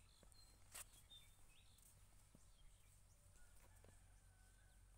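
Near silence with a faint low steady hum, a few faint high bird chirps, and a single sharp click just under a second in.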